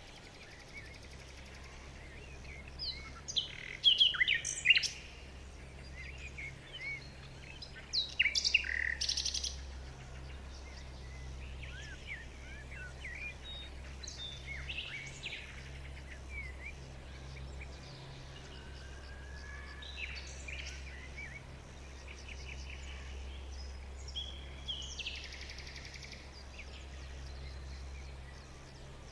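Birds chirping and singing in short, varied calls, with louder bursts of chirps about four and nine seconds in and softer, scattered calls after. A faint steady low hum runs underneath.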